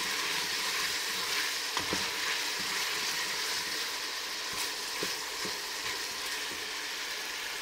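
Cuttlefish and diced vegetables sautéing in olive oil in a stainless steel pot, a steady sizzle, stirred with a wooden spoon that knocks lightly against the pot a few times.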